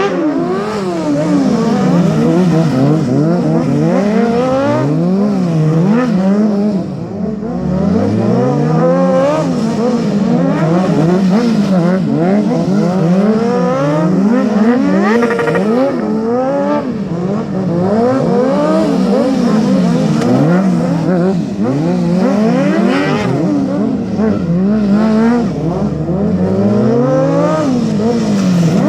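Stunt motorcycle engine revved up and down over and over, the pitch rising and dropping about once a second.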